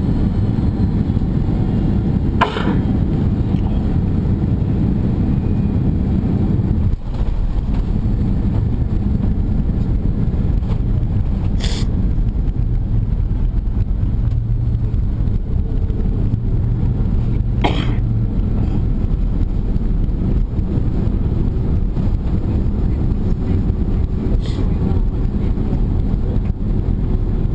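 Steady loud rumble of jet engines and airflow heard inside the cabin of a Boeing 767 airliner, with a few sharp clicks.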